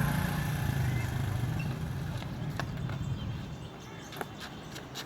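Motorcycle engine running and fading away over the first two to three seconds, then a scattering of sharp clicks and knocks.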